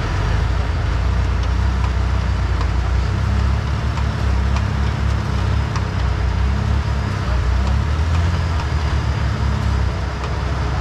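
Off-road competition buggy engine running under load, its pitch rising and falling as it is worked through an obstacle, with a few sharp clicks.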